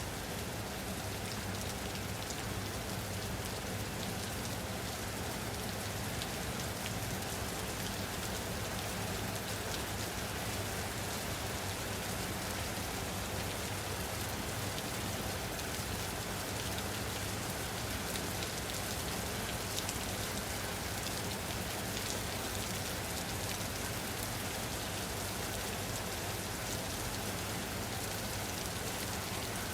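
Steady rain falling: an even hiss with fine, scattered drop ticks, unchanging throughout.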